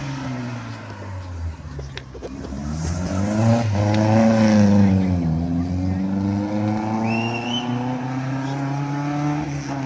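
A racing car's engine revving as the car passes, loudest about halfway through, its note falling away and then climbing again as it pulls on.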